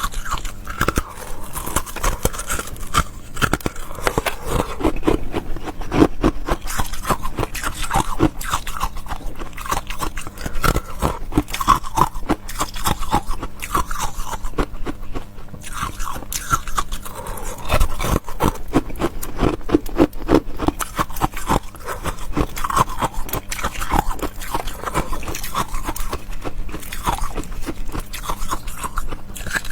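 Close-miked chewing and crunching of crisp food, a dense run of irregular crackles.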